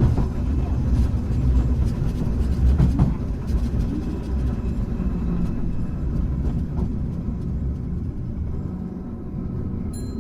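Hankai Tramway type 351 tram car running on the rails: a steady low rumble of the motors and wheels, with a few knocks from rail joints in the first few seconds.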